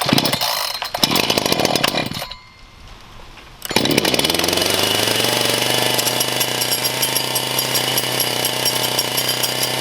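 Brand-new Echo CS-590 two-stroke chainsaw being started: it fires for about two seconds and dies, then catches about three and a half seconds in, rises briefly in pitch and settles into a steady run.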